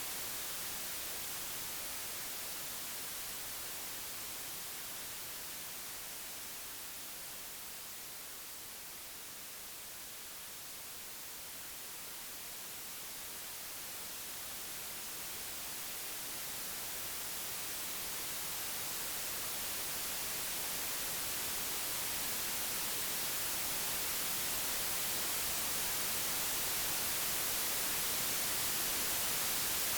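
Computer-generated white noise: a steady, even hiss that slowly fades to its quietest about ten seconds in, then swells gradually louder again.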